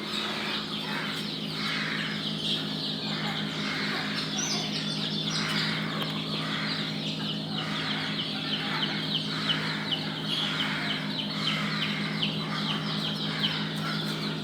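Many chicks peeping in a dense stream of quick, falling chirps, over a steady low hum.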